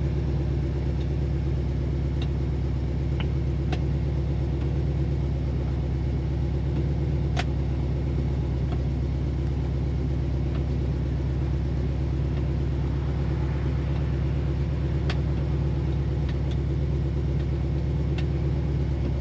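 AMC 304 V8 of a 1973 Jeep CJ5 idling steadily, with a few faint clicks scattered through.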